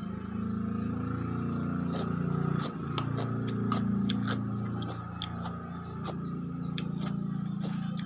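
Crisp, irregular crunches of pickled Dayak cucumber being chewed, with a spoon on a plastic bowl, heard over a steady low hum.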